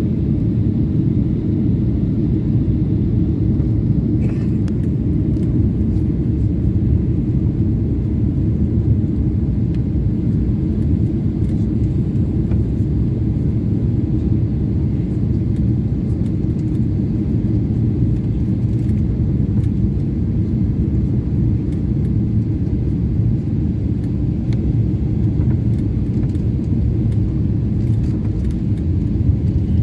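Steady low rumble of a Boeing 777-300 airliner heard from inside the passenger cabin: engine and airflow noise with no clear change in pitch.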